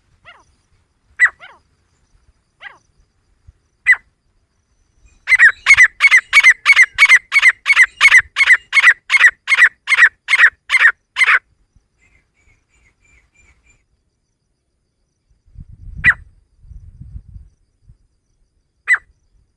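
Female grey francolin calling: a few single sharp calls, then a fast, even run of about fifteen calls at roughly two and a half a second lasting about six seconds, then two more single calls.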